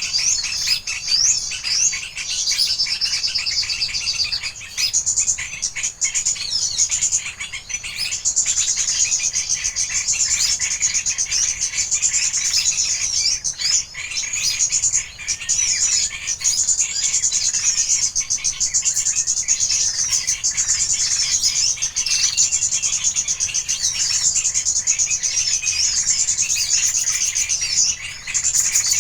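Birds chirping and trilling, high-pitched and almost unbroken, with many quick repeated notes.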